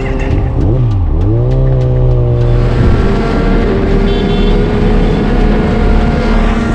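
Motorcycle engine under way. About a second in its pitch drops sharply and climbs back, as in a gear change, then it runs on steadily with a slow rise in pitch while wind noise builds.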